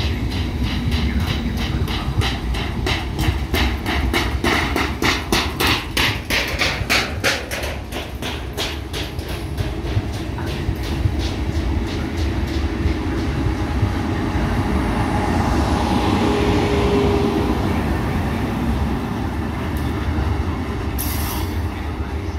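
Trenitalia Intercity passenger train with an E401 electric locomotive rolling through a station. The coach wheels make a quick, even clickety-clack over the rail joints. About ten seconds in, the clicking fades into a steadier rumble, with a short whine partway through and a brief hiss near the end.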